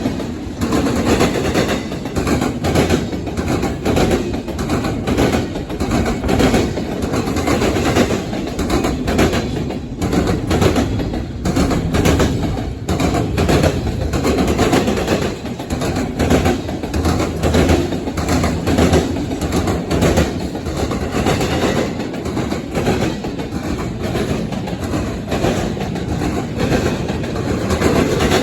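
Norfolk Southern freight train rolling past close by, its cars' wheels clacking steadily over the rail joints.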